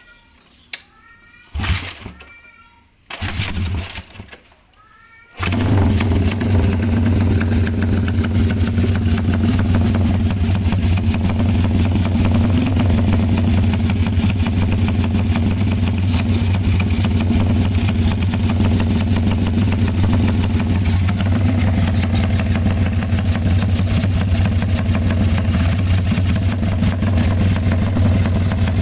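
Motorcycle engine fitted with a BMS X-one aftermarket exhaust: a few short bursts of starting, then it catches about five seconds in and idles steadily through the exhaust.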